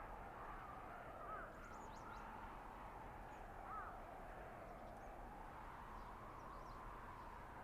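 Steady wind noise of a blizzard in a winter forest, with short bird calls twice, about a second in and near the middle.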